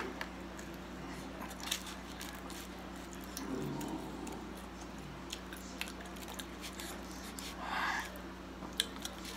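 Quiet chewing of a pizza slice, a bite at the start followed by soft mouth clicks and smacks, over a steady low hum.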